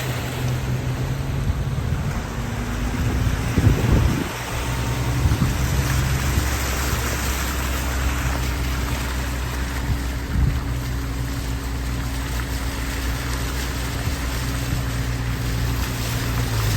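Heavy rain falling with a steady hiss, over the low steady hum of a running vehicle engine. A couple of dull thumps come about four and ten seconds in.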